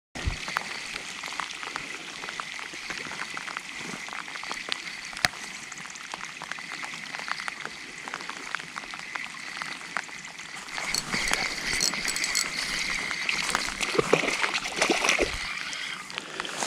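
Water splashing and trickling with many scattered sharp clicks and taps, growing louder about two-thirds of the way through.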